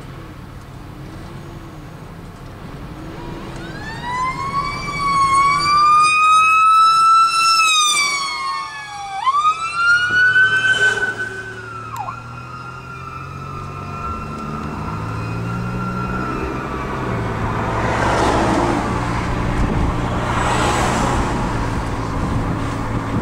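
Fire apparatus electronic siren wailing, rising and falling in pitch a few times and then winding slowly down, over the rumble of a fire truck's engine that grows louder as the truck comes by.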